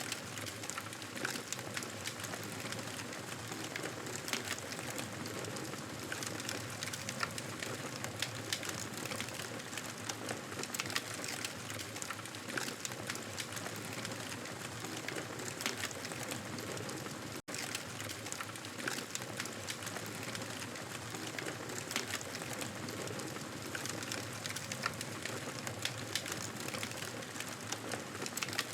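Wood fire crackling in a fireplace: a steady hiss dotted with many small, irregular pops and snaps. The sound drops out for a split second about seventeen seconds in.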